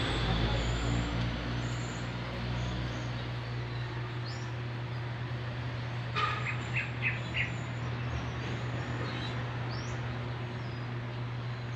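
Birds chirping: short high calls a few times, including a quick run of four chirps past the middle, over a steady low hum. A low rumble, like a passing vehicle, fades out in the first few seconds.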